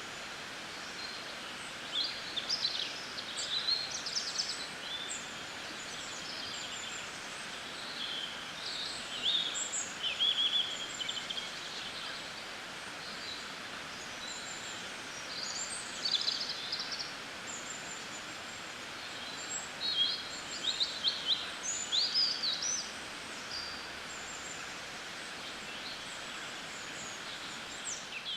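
Wild birds chirping and calling in short, quick high notes, coming in several clusters with lulls between, over a steady background hiss.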